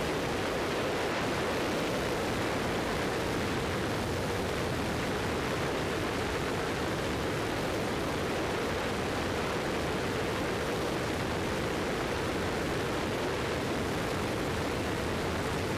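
Cessna 172 cabin noise in flight: the piston engine and propeller drone steadily with rushing air, without change.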